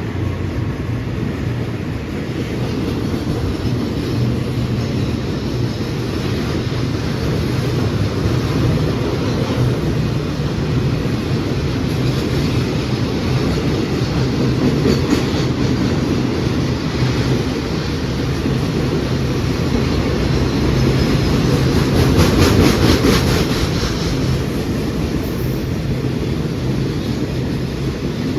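A train running past on the line: a steady low rumble, with runs of rapid wheel clicks over the rail joints partway through.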